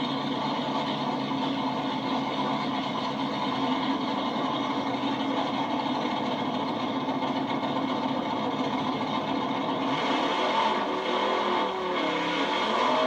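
Drag racing engine idling steadily, its pitch wavering up and down in the last few seconds.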